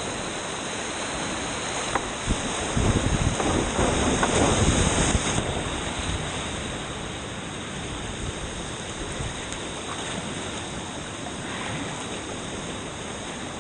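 Rushing whitewater of a creek, a steady noise of moving water, with a louder stretch of splashing and low rumble for a few seconds starting about two and a half seconds in.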